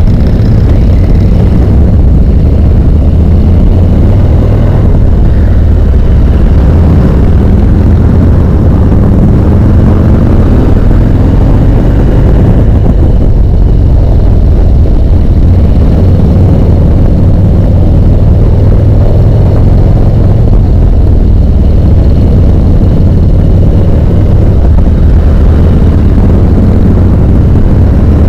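Harley-Davidson V-twin motorcycle engine running steadily under way, with wind rushing over the microphone.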